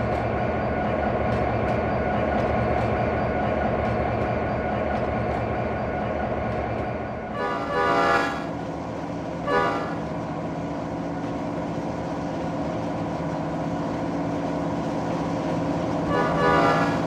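Diesel locomotive of a maintenance-of-way train running past while sounding its air horn: a blast of about a second some seven seconds in, a short toot a moment later, and another blast starting near the end.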